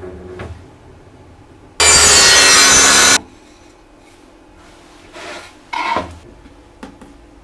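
A tool scraping against wood: one loud, even stroke about two seconds in, then two shorter, quieter strokes.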